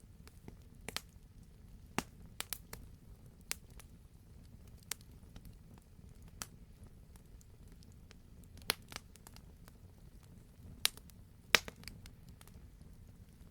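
Wood fire crackling in a fireplace: irregular sharp pops and snaps over a low, steady rumble from the flames, with the two loudest pops near the end.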